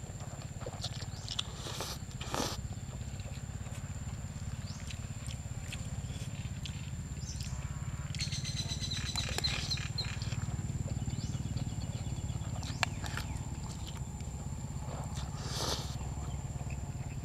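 A person eating close to the microphone: chewing khanom jeen rice noodles and fresh vegetables, with scattered wet smacks and clicks over a steady low hum.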